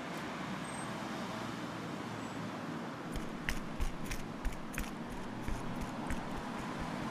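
Steady street ambience with a low hum of traffic. From about three seconds in comes an irregular run of sharp footsteps on a paved sidewalk, about a dozen.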